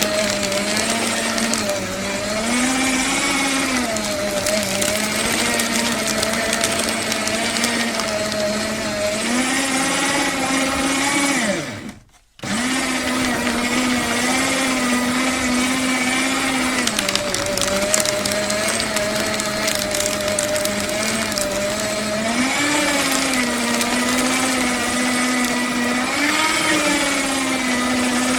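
Electric paper shredder running, its motor hum sagging and recovering in pitch as paper feeds through the cutters, with a crackle of paper being shredded. About halfway through, the motor winds down, stops for a moment and starts again.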